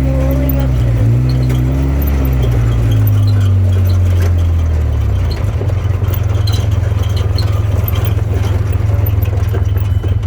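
A vehicle engine running close by, its low pitch shifting up and down over the first few seconds, then settling into a steady low rumble.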